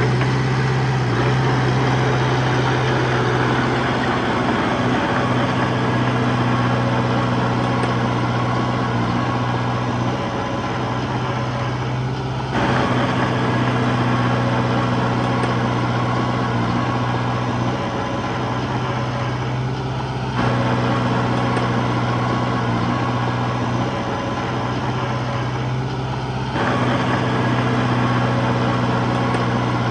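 Heavy diesel engine of earthmoving machinery running steadily with a low hum. Its sound shifts abruptly three times, about 12, 20 and 26 seconds in.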